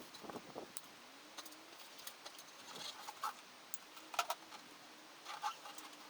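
Scattered light clicks and metallic clinks, several short taps, the loudest about four seconds in: tools and engine parts being handled during engine assembly work.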